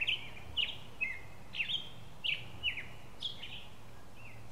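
A bird calling: a quick series of short, sharp chirps, each dropping in pitch, a little more than two a second, over a steady low background rumble.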